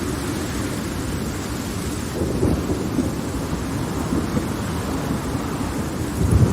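Thunder rumbling low over steady rainfall, swelling about two seconds in and growing louder again near the end.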